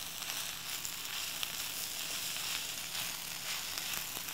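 Spinach, mushrooms, garlic and rosemary sizzling steadily in olive oil in a hot pan as the spinach wilts, with a couple of faint clicks.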